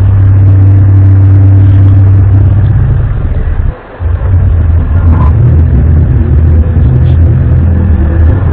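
Loud, low droning rumble of the kind passed around as a mysterious 'sky trumpet' sound. It cuts out briefly just before four seconds in, then comes back wavering.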